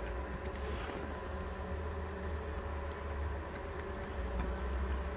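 Honeybees buzzing steadily around an open hive, over a low rumble.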